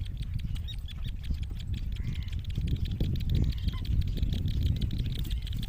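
Fish-eating bird chicks giving a few short, faint calls over a steady low rumble and a fine continuous crackle.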